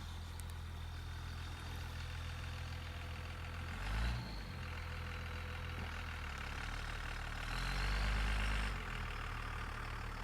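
Vehicle engine running steadily, swelling briefly about four seconds in and again for about a second near eight seconds.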